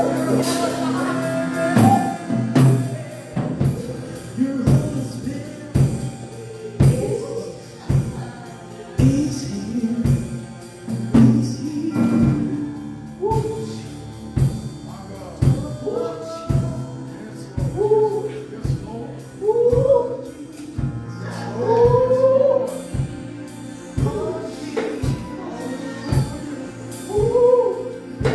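Gospel worship music: a singer's voice rising and falling in long sung phrases over keyboard chords, bass and a steady drum beat.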